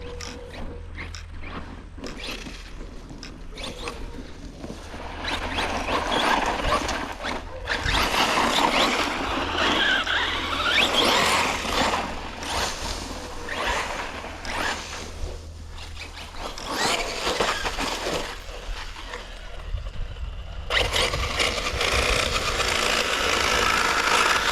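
Team Corally Kagama 6S electric RC car being driven and jumped on dirt: a brushless motor whine and tire noise that rise and fall with the throttle. It is quieter for the first few seconds, louder from about five seconds in, dips briefly near the end, then picks up again.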